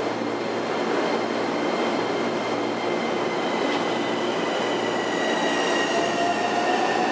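Electric train noise on a station platform beside a standing JR 211 series train: a steady rumble and hum, with thin high whining tones that slowly fall in pitch over the last few seconds and a short rising tone near the end.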